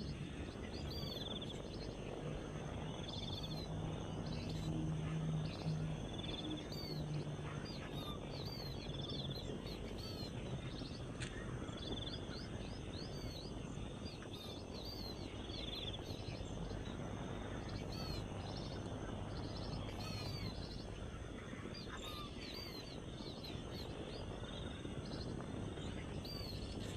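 Birds chirping outdoors: short, high, sharply bent chirps come again and again over a steady background hiss, with a lower held note repeating every two seconds or so. A faint low hum runs under the first third.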